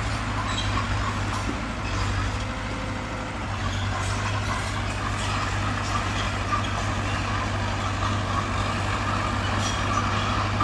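Diesel engine of earthmoving machinery running steadily, a constant low drone with faint clicks over it.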